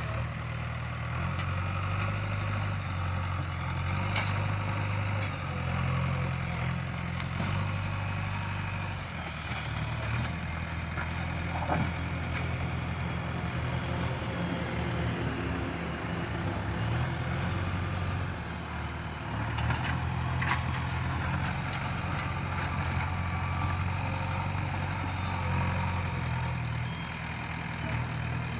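Heavy diesel engine of an earthmoving machine running with a steady low drone that shifts slightly in pitch every few seconds, with a few faint knocks.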